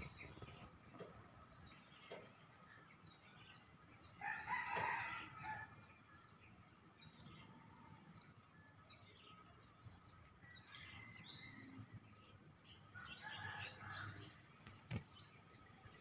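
Distant birds calling: many faint short chirps throughout, with a louder, longer call about four seconds in and another near the end.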